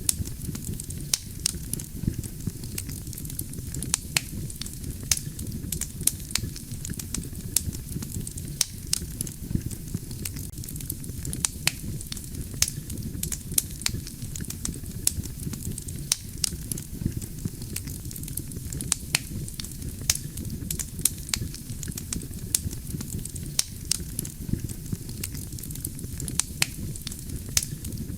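A wood campfire burning: a steady low rumble of flames with frequent sharp, irregular crackles and pops from the burning logs.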